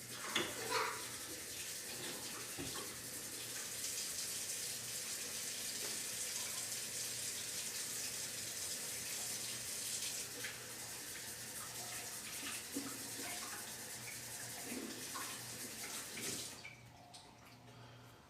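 Water running steadily from a tap, with a few knocks as it starts, shut off suddenly near the end.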